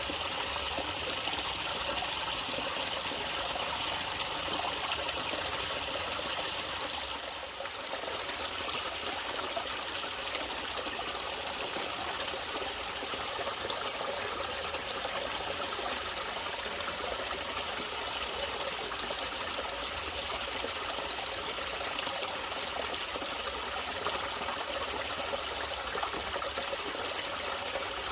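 Water trickling and running in a small stream, steady and continuous. About seven seconds in the level briefly dips and the higher hiss eases a little.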